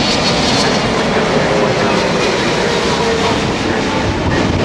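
Steady jet engine noise from a Boeing 777-300ER airliner's GE90 turbofans.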